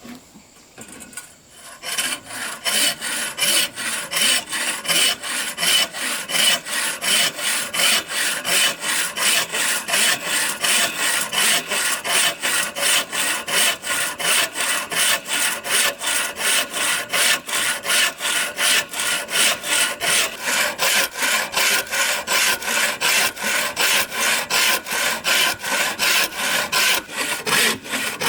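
Rhythmic rasping strokes of a hand tool, about three a second, starting about two seconds in and keeping an even pace.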